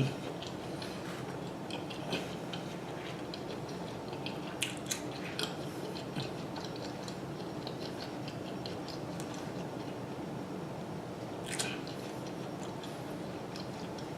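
A person chewing food close to the microphone: soft, irregular wet clicks and crackles, with a few sharper clicks near the start, about five seconds in and near the end, over a steady low room hum.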